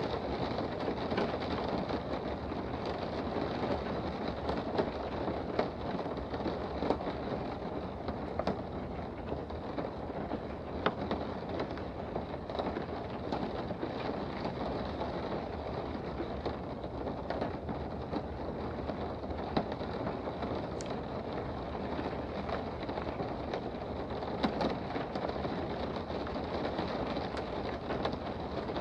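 Steady rain heard from indoors: a dense, even patter with many separate drops ticking sharply throughout.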